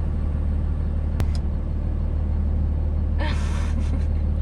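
Pickup truck running or driving, a steady low rumble of engine and road. There is a sharp click about a second in and a short hissy burst around three seconds in.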